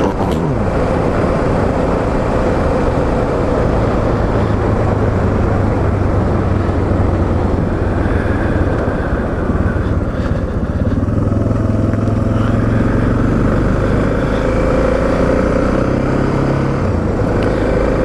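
Suzuki DR650SE's single-cylinder engine running steadily as the dual-sport motorcycle is ridden, its note shifting a little with the throttle.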